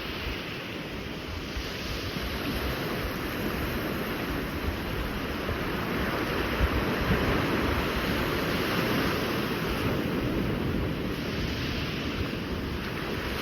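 Sea waves washing on the shore, with wind buffeting the microphone; the surf swells a little louder about halfway through.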